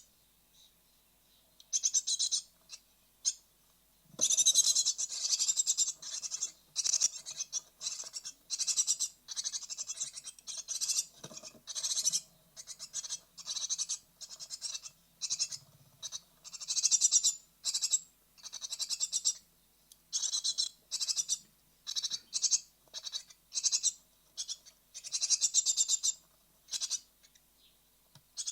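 Great tit nestlings about to fledge, giving raspy, hissing begging calls in quick bursts over and over. The calls start sparse and turn almost continuous about four seconds in.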